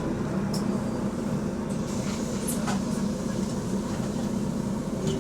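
Bus engine and road noise heard from inside the bus: a steady low drone with a few light rattles. The bus has an exhaust leak.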